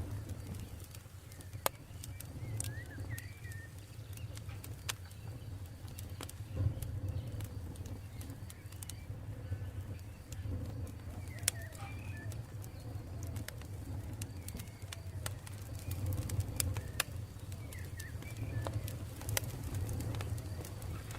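Campfire crackling, with sharp pops scattered irregularly over a low steady rumble of burning. Faint bird chirps come in briefly a few times.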